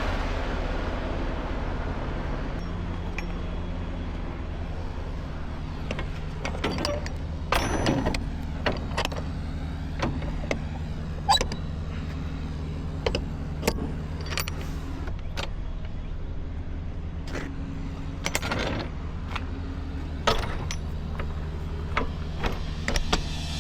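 Semi-truck diesel engine idling steadily, with scattered clicks and knocks on top.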